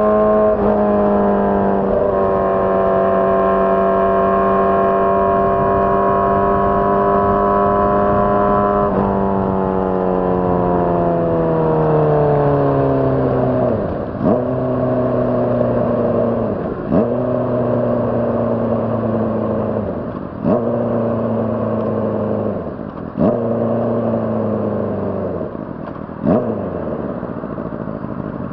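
2006 Honda CBR600RR's inline-four engine running at a steady high rpm, then easing off as the bike slows. Five sharp throttle blips follow, about three seconds apart, as it downshifts, and the engine note settles lower after each one.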